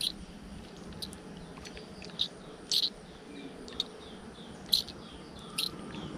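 Birds chirping: short, sharp chirps about once a second, the loudest about three-quarters of the way in.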